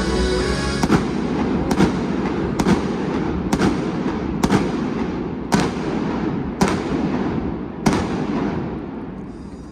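Fireworks going off: eight sharp bangs about a second apart over a continuous rumbling crackle, which fades near the end. Music runs for the first second.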